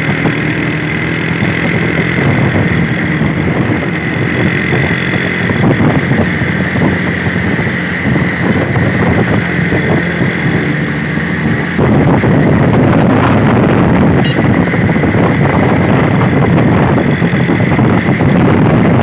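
Truck engine running steadily as the vehicle gets going. About twelve seconds in, the engine and road noise step up and get clearly louder.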